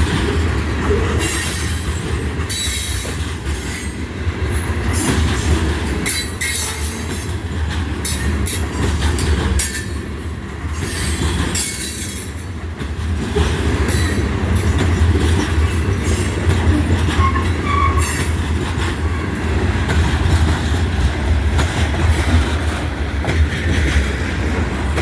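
Freight train cars rolling past: a steady low rumble with rapid, irregular clacks of wheels over rail joints and some wheel squeal.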